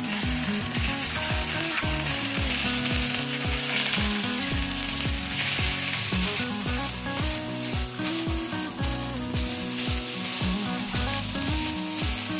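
Chicken thighs frying in hot olive oil in a skillet, a continuous sizzle, over background music with a steady beat.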